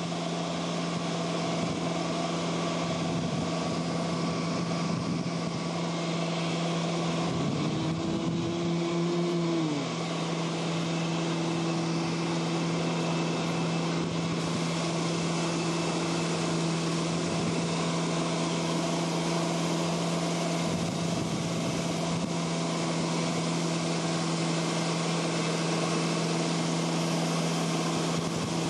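Motorboat engine running at a steady pitch over a hiss of wind and water. About eight seconds in, a brief higher tone rises and falls.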